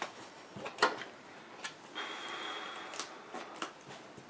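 Trading cards being handled and set down on a table: several light taps and clicks, with a brief rustle of cards sliding about two seconds in.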